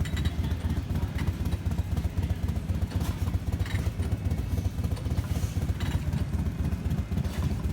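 Motorcycle engine running steadily at a low, even pulse, with no rise in revs.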